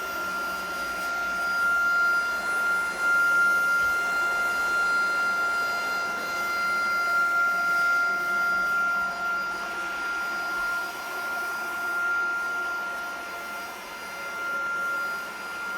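Tineco cordless stick vacuum running with its upholstery and dusting brush attached: a steady high-pitched motor whine over rushing air. The loudness swells and dips as the brush is worked along the walls.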